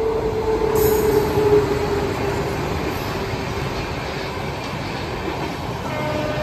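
Express train with an electric locomotive running through a station at speed without stopping. The tail of the locomotive's horn slides down in pitch and fades over the first few seconds as the engine passes. A loud, steady rumble and rattle of passenger coaches rushing by continues, and a thin steady whine comes in near the end.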